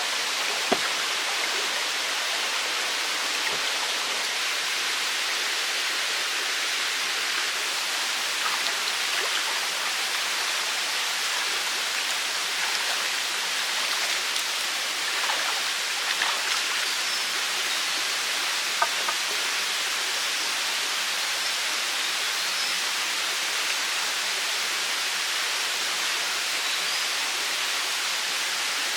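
Steady rushing of running water, with a few light clicks over it.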